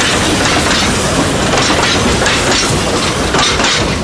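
Narrow-gauge steam train running, with a loud steady rush and irregular clicking of wheels over the rails.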